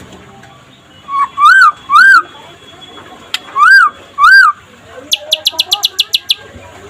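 Young white-rumped shama (murai trotol) singing: two pairs of loud, arched whistled notes, then a fast run of about ten short, high notes near the end.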